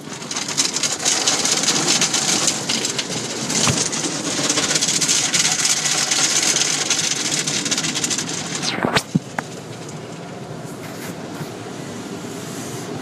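Automatic car wash equipment running: a loud, steady rushing noise that drops to a quieter, steady hum about nine seconds in.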